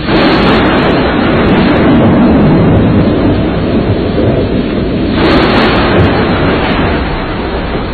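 Typhoon storm noise: a loud, even rush of wind and rain that comes on suddenly, eases, and surges again about five seconds in.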